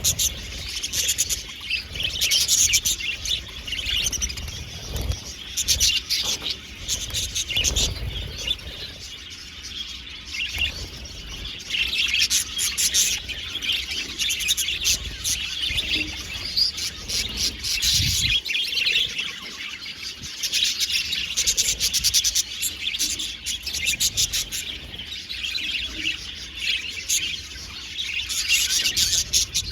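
A flock of budgerigars chirping and warbling continuously, many birds at once, with a few low thuds during the first half.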